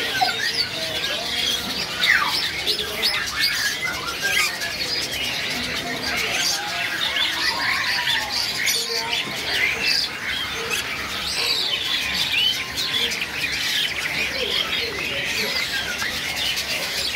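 Many caged birds calling at once: a dense, steady chatter of overlapping high chirps, whistles and squawks.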